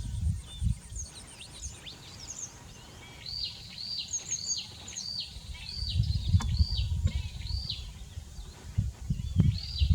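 A bird calling in a series of short, high chirps, each rising and dropping, about one and a half a second, with a few other bird calls around them. A low rumble comes and goes beneath, loudest in the second half.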